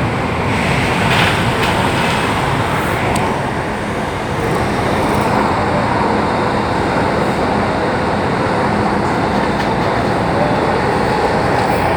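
MTR Tung Chung line CAF electric train running at speed, heard from inside the passenger car: a steady rumble of wheels on rail and running gear.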